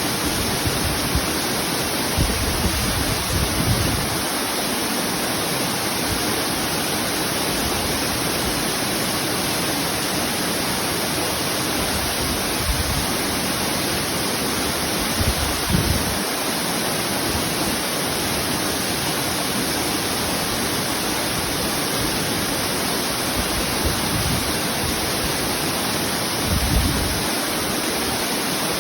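Waterfall rushing steadily, a dense even roar of falling water, with a few brief low rumbles.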